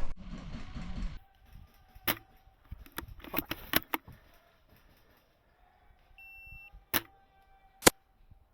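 Airsoft rifle shots: sharp single snaps, a quick run of several in the middle, then two more about a second apart near the end.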